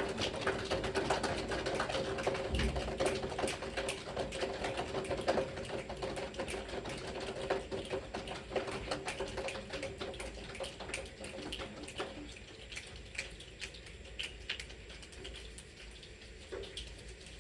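A class of children making a body-percussion rainstorm: many scattered small snaps and taps that sound like rain, thinning out and growing quieter over the last third as the storm dies away.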